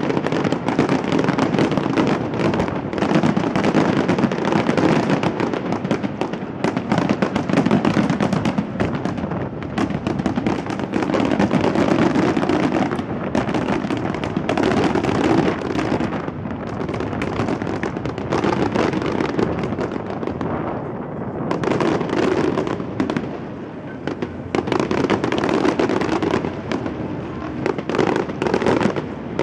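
Fireworks display: a dense, continuous barrage of bursts and crackles that eases slightly about three-quarters of the way through.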